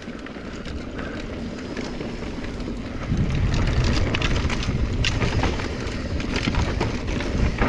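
Mountain bike ridden down a dirt trail: tyres rolling and crunching over dirt and rock, with scattered rattles and clicks from the bike and wind buffeting the chest-mounted microphone. It gets louder and rougher from about three seconds in.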